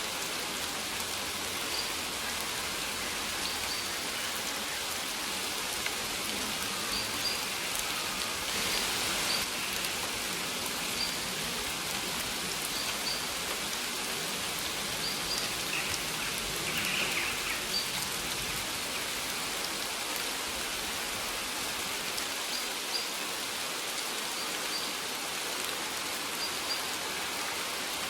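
Steady rainfall, with short high bird chirps repeating every second or two.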